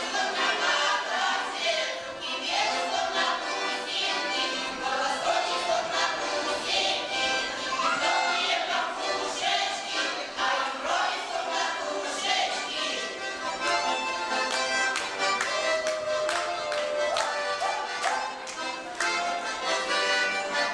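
Russian folk choir singing a folk song to accordion accompaniment; in the last third the voices drop away and the accordion plays on with a brisk rhythm.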